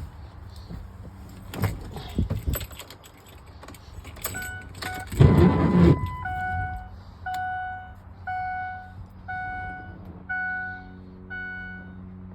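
Keys jangling and clicking in the ignition of a 2002 Ford Excursion, then a loud rustle, followed by the dash warning chime dinging about once a second, six times, as the key is turned on before the cold start. A low steady hum comes in near the end.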